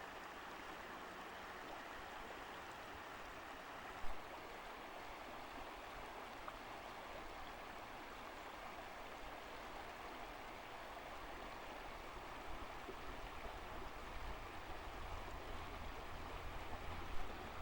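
Steady rushing of a stream or falling water. A short knock sounds about four seconds in, and a low rumble builds near the end.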